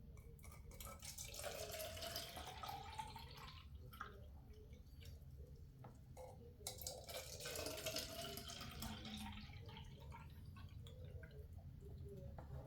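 Water poured from a square measuring scoop into a small yogurt bottle, twice, with a tone that rises steadily as the bottle fills each time.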